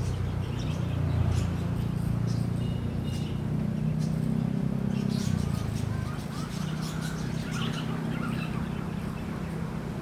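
Birds chirping in short calls, heard twice, over a steady low hum.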